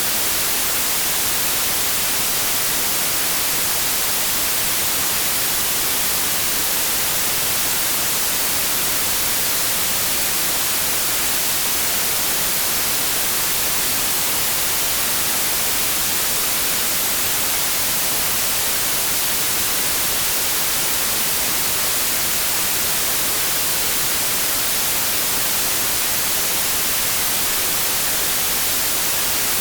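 Steady white noise: an even, unchanging hiss of static, brightest in the high frequencies.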